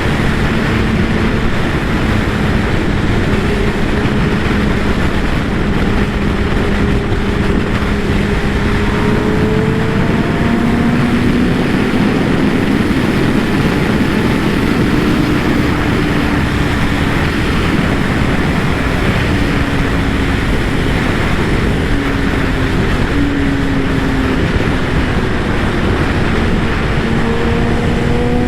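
Kawasaki ZX-10R inline-four engine running at a steady riding speed, its pitch drifting slowly and rising near the end, under heavy wind noise on the rider's microphone.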